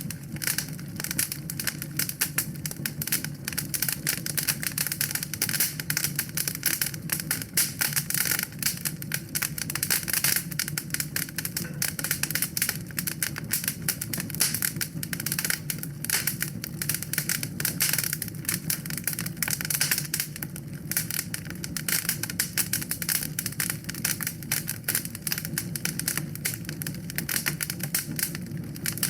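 Wood fire crackling in a fireplace: a dense, continuous run of small pops and snaps over a low steady rumble.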